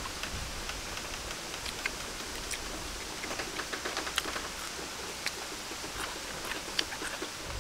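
Two people eating with their hands and chewing: soft scattered mouth clicks and smacks, several in quick succession about three seconds in, over a steady background hiss.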